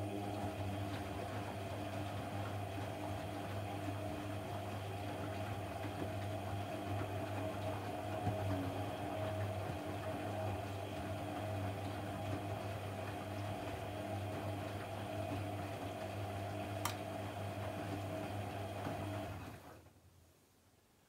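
A household appliance's electric motor running with a steady mains-type hum and several steady tones, then shutting off and running down about nineteen seconds in. A single sharp click comes a little before it stops.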